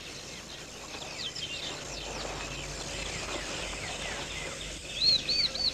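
Faint bird calls over a steady background hiss: a few high chirps about a second in, then a quick run of about five arching high notes near the end.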